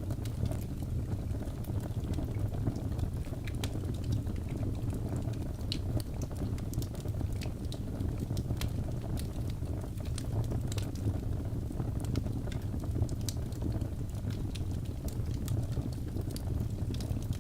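Birch logs burning in a fireplace: a steady low rush of flame with frequent small, sharp crackles and pops scattered throughout.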